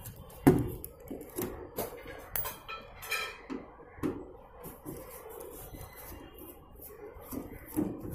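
Hand tools clinking and knocking against the washing machine's body while the back cover's screws are undone: irregular clicks and taps, one sharp knock about half a second in and a brief metallic ring around three seconds in.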